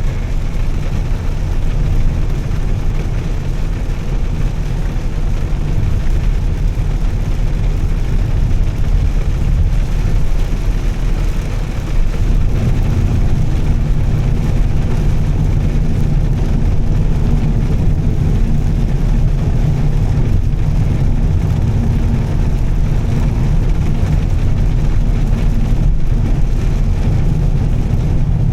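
Volvo S60 T6's turbocharged straight-six and its tyres giving a steady low drone while cruising on a wet road, with a haze of road and spray noise over it. A steady engine note settles in about twelve seconds in.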